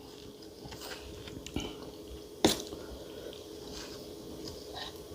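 Close-up mouth sounds of a person chewing spicy green papaya salad with red ant eggs: wet squishing and small clicks and smacks, with one sharp click about two and a half seconds in. A faint steady hum runs underneath.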